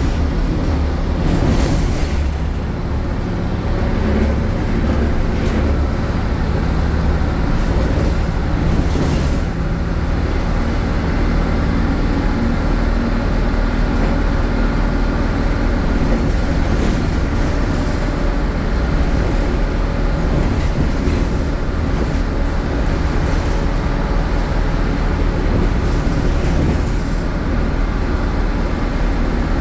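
MAN Lion's City city bus with an MAN Euro 4 diesel engine and ZF gearbox running loudly under way, its engine note shifting with road speed. Two short hisses come about two and nine seconds in.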